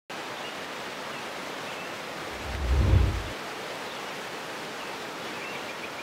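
Steady rush of a waterfall's falling water. A deep low rumbling swell builds and cuts off about three seconds in.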